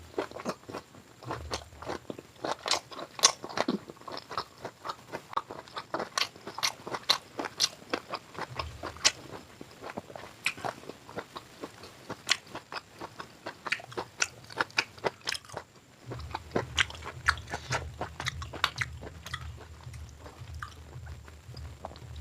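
A person chewing food close to the microphone, with many sharp wet mouth clicks and smacks. From about two-thirds of the way in, a low rumble of chewing runs under the clicks.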